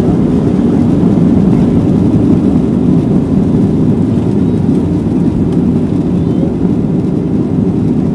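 Steady low rumble inside the cabin of a Boeing 737-700 airliner: engine and airflow noise heard from a passenger seat.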